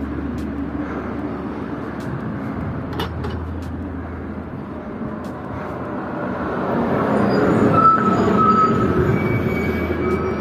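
Road traffic on a town street: a steady engine hum with a vehicle passing close by that swells to its loudest about eight seconds in.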